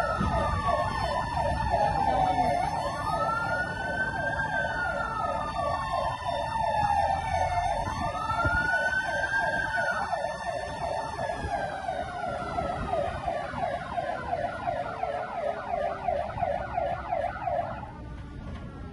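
Fire engine sirens: a slow wail rising and falling every few seconds over a rapid yelp, with engine rumble underneath. About eleven seconds in, the wail stops rising and slowly winds down, and the yelp cuts off near the end.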